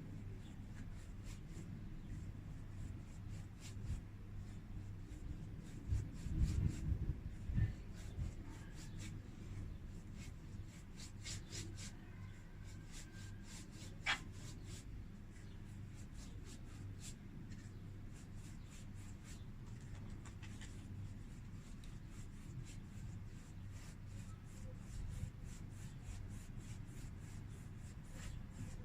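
Watercolour brush working on paper: soft scratchy strokes and light ticks, with a few louder low bumps about six to eight seconds in and one sharp tick near the middle. A steady low electrical hum sits underneath.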